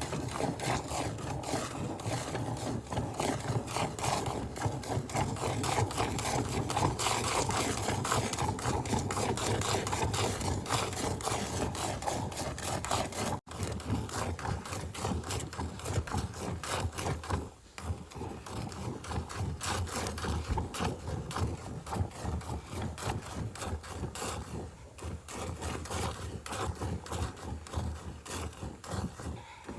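A cow being milked: quick rhythmic squirts of milk hitting a pail.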